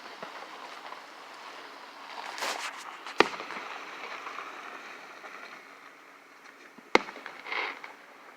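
Fireworks going off: a short burst of crackle, then two sharp bangs about four seconds apart, the second followed by another brief crackling burst.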